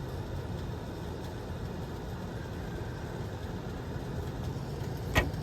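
2010 Everstar 10,000 BTU portable air conditioner running steadily with a low, even hum, with one sharp click near the end.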